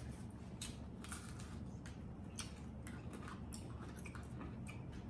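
Someone chewing a meal of meat, rice and cabbage: irregular wet mouth clicks and smacks, several a second, over a steady low hum.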